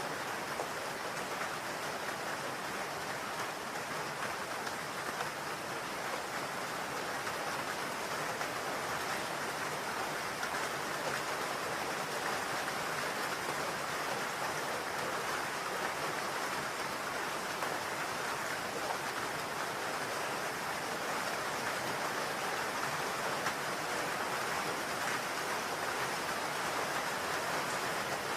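Steady rain falling on a roof, an even hiss of drops with no letup.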